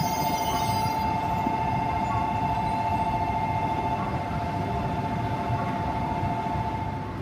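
Shinkansen trains standing at the platform, a steady hum and rumble, with a steady warbling two-note tone over it that cuts off near the end.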